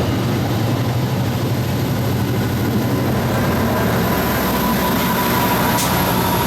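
Amtrak diesel locomotive and train running close by: a loud, steady engine rumble with a thin, steady whine above it.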